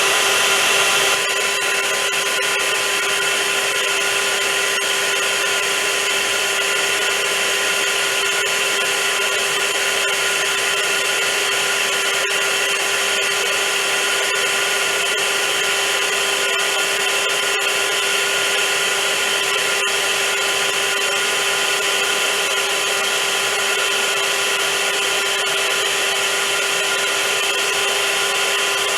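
Vacuum cleaner motor running steadily, a constant high whine over a rushing hiss of air. It is a little louder for about the first second, then holds even.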